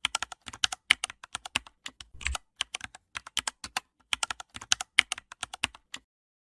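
Typing on a computer keyboard: quick, irregular keystroke clicks, several a second, stopping abruptly about six seconds in.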